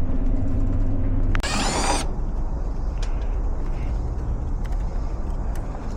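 Steady vehicle-cabin hum that cuts off about a second and a half in, followed at once by a brief loud mechanical clatter lasting about half a second, then a steady background hiss.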